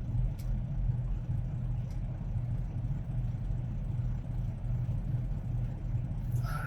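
Semi truck's diesel engine running steadily with a low, even rumble, heard from inside the cab.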